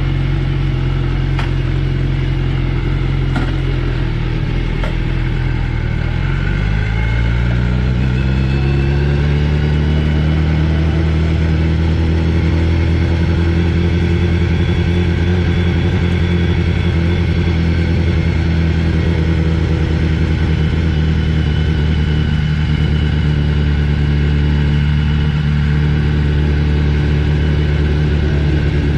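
BMW motorcycle engine running steadily. Its pitch rises between about six and nine seconds in, then holds at a steady higher speed.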